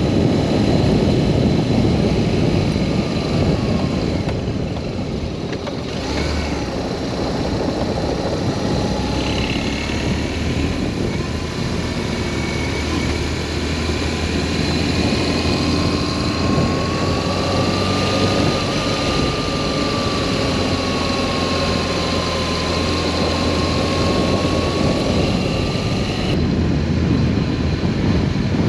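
BMW R1200S boxer-twin engine running steadily while the motorcycle is under way, with wind rushing over the microphone. A thin tone rises and falls slowly through the middle.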